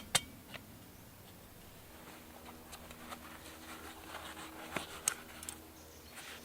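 Light clicks and small taps of cooking utensils against a metal camping pot, irregular and scattered, with one sharp click just after the start.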